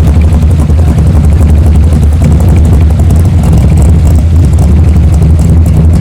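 Classic car engine running steadily close by, a loud low throbbing exhaust with a fast, even pulse and no change in revs.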